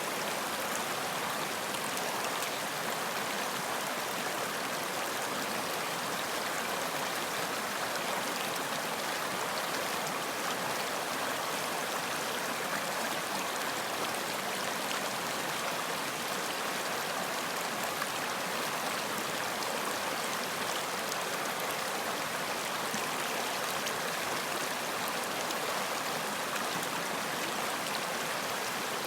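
Running water of a stream flowing steadily, an even rushing with faint small splashes and no change in level.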